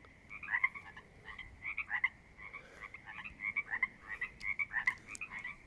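A chorus of pond frogs calling: many short, creaking calls overlapping one another.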